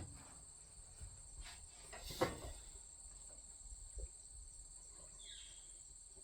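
Faint, steady high chirring of insects such as crickets, with a few light knocks, the loudest about two seconds in, and a short falling chirp near the end.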